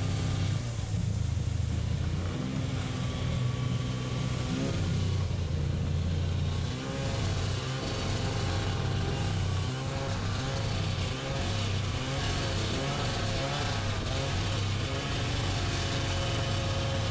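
A vehicle engine running steadily, its revs rising and falling.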